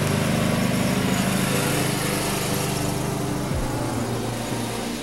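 Riding lawn tractor engine running steadily, with a slight change in its note about three and a half seconds in.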